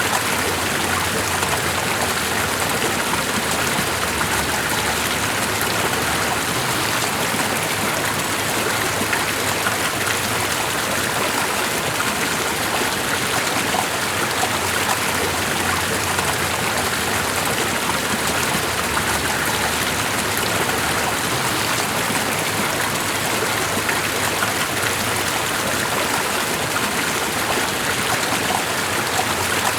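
Running water, a steady even rush and patter with no breaks or changes.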